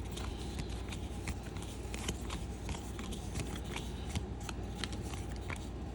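Baseball trading cards being handled and flipped through: a string of short, light clicks and slides as cards are moved one after another, over a steady low hum.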